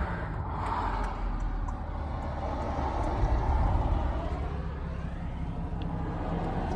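Car on the move: a steady low engine and road rumble heard from inside the cabin.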